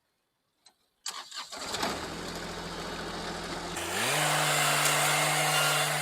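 Tractor engine starting about a second in and settling to a steady idle, then revving up about four seconds in and holding at the higher speed.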